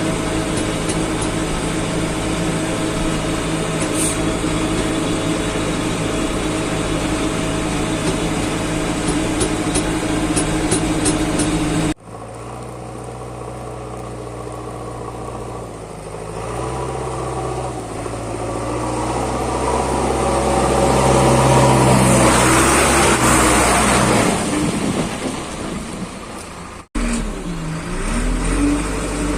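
Diesel engine of heavy construction machinery running steadily in three separate clips, with a hard cut about twelve seconds in and another near the end. In the middle clip the engine grows louder and higher, revving up to a peak about two-thirds of the way through.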